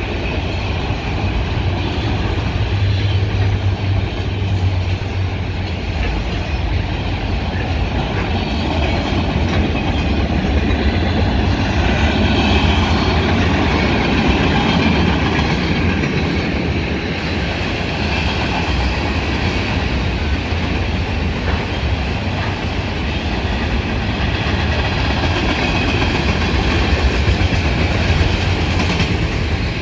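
Freight cars of a long mixed freight train rolling past close by, autoracks giving way to covered hoppers: a steady rumble of wheels on rail with clickety-clack.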